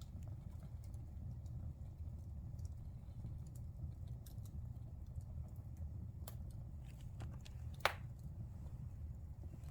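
Wood fire burning in a fireplace: a steady low rumble of the flames with scattered crackles and pops, and one sharp louder pop about eight seconds in.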